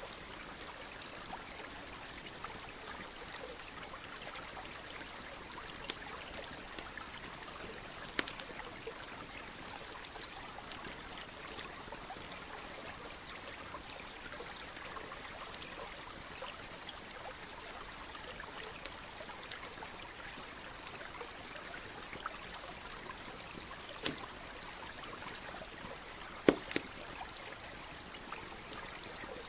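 Steady trickling of a stream, with a campfire crackling over it in scattered sharp pops. A few pops stand out louder, the loudest near the end.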